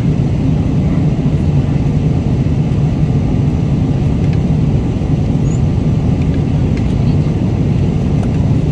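Steady low drone of an airliner cabin in flight, the engine and airflow noise, with a few faint light clicks.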